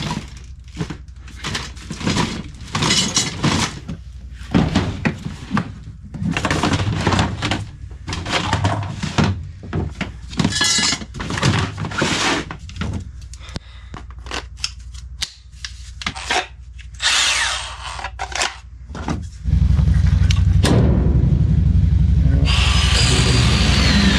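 Wood being chopped with a hatchet: a long run of separate sharp chops and cracks, irregular, about one to two a second. A steady low drone takes over about three-quarters of the way through.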